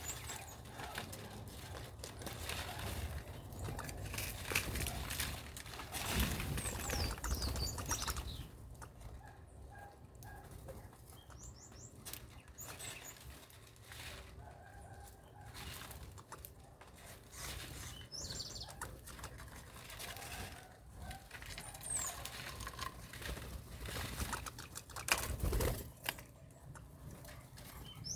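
Birds fluttering and flapping their wings, with a few short, high chirps now and then. There is a louder low thump about 25 seconds in.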